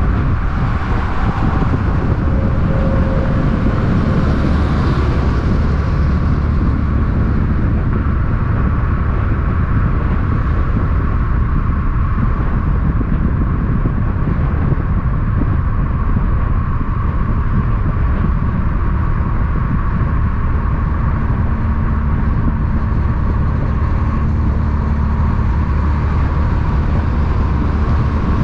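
Steady, continuous road-vehicle noise: a constant low rumble of engines and tyres that does not rise or fall.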